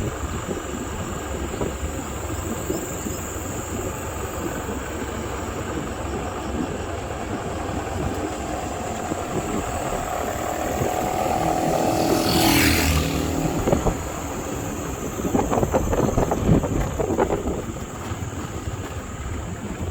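A vehicle engine running under a steady rumble of wind on the microphone. The engine note climbs for a few seconds past the middle, then a brief hiss comes.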